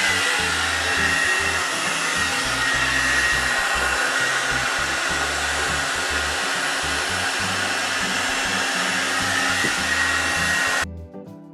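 Blow-dryer hot air brush running steadily: an even rush of air with a faint high whine, cutting off abruptly about eleven seconds in. Quiet background music plays under it and is left on its own after the cut.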